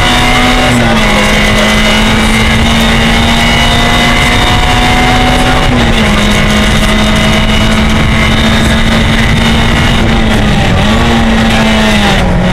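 Peugeot 106 rally car's four-cylinder engine, heard from inside the cabin, running hard at high revs. Its note dips briefly about a second in, again near six seconds, and twice near the end.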